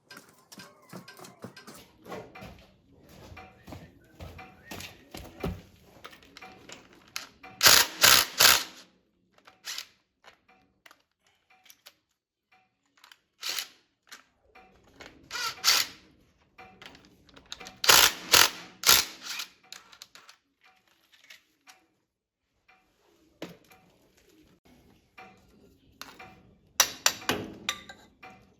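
Metal tools and parts clinking and knocking in irregular bursts of quick sharp strikes, with short quiet gaps between, typical of hand work on mechanical parts.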